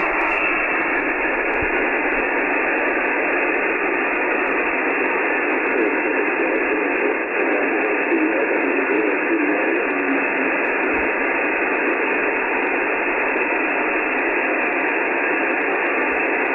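Steady hiss from an Icom IC-9700 transceiver's speaker receiving 70 cm single sideband, cut to the narrow voice passband. The other station's weak, fading signal is buried in the noise.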